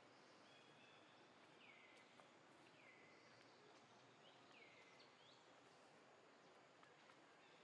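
Faint outdoor ambience with a bird repeating a short call that sweeps down in pitch, every second or two.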